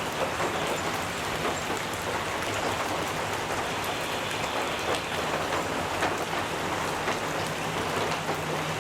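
Gentle rain pattering steadily on a metal roof, a dense even patter of drops, with a faint low steady hum underneath that grows a little near the end.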